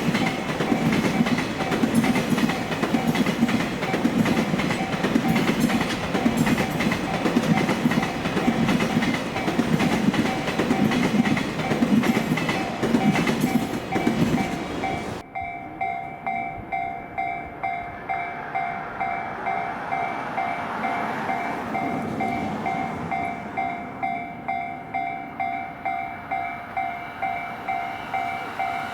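An electric train runs past over the level crossing, its wheels clattering in a steady rhythm. The crossing's warning bell rings throughout, about one and a half strikes a second. The train noise cuts off suddenly about halfway, leaving the warning bell ringing alone.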